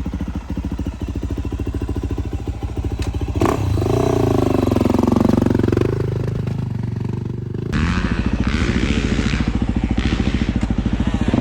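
Yamaha YZ450F single-cylinder four-stroke motocross engine running with a rapid even beat. About three and a half seconds in it is revved, its pitch sagging and climbing again, and from about eight seconds it runs louder under way.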